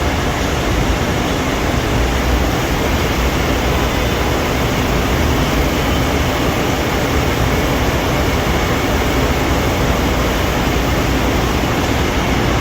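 Hydraulic pump motor of a 600-ton Accurpress press brake running steadily: an even machine hum and hiss with a strong low rumble.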